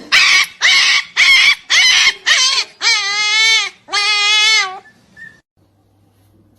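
A dog whining and crying in a run of short, loud yelps, then two longer wavering wails.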